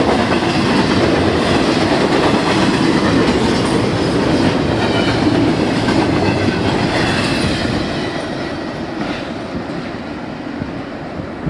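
Double-stack intermodal freight cars rolling past on the rails, loud and steady, dying away after the last car goes by about eight seconds in.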